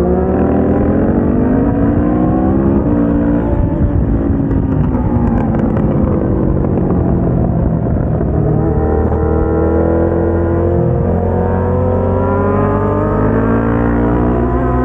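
KTM 690 SMC-R's single-cylinder engine at full track pace, revs climbing for the first few seconds with a shift near three seconds. The revs then fall for several seconds as the bike slows, and from about eight seconds in it accelerates again, revs rising through the gears.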